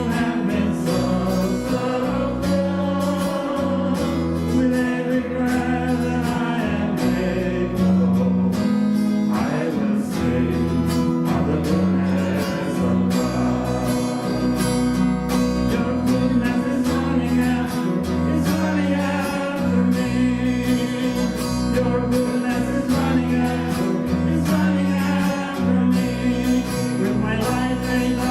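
Worship song: acoustic guitar with singing, playing steadily.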